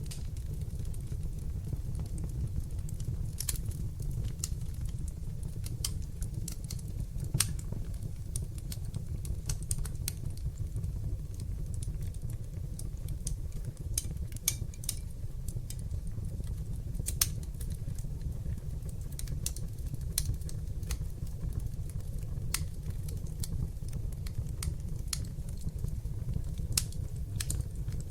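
Wood fire burning in a fireplace: a steady low rumble of flames with irregular sharp crackles and pops, a couple of them louder than the rest.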